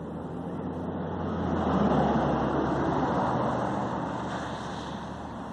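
Motor vehicle engine and road noise: a steady low hum with a rushing sound that swells to its loudest about two seconds in, then slowly fades.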